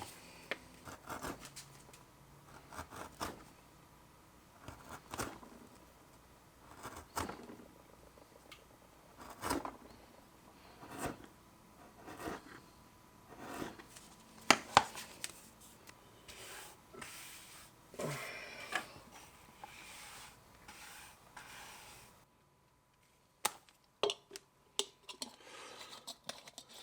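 Hand tools working water buffalo leather: irregular sharp snips, clicks and short scrapes, one every second or two. About three-quarters of the way through they break off into dead silence, then a few more clicks follow.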